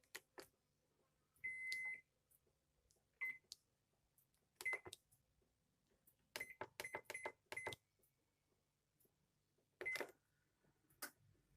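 Washing machine control panel beeping as its buttons are pressed. There is one longer beep, then single short beeps, then a quick run of about five beeps, each with a button click.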